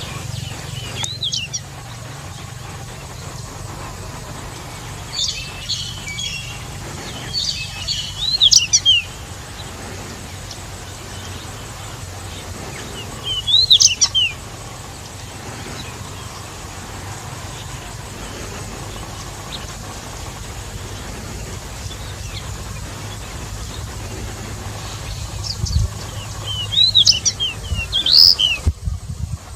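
Male pied bushchat singing short, quick warbled phrases with pauses of several seconds between them, over a steady low background rumble.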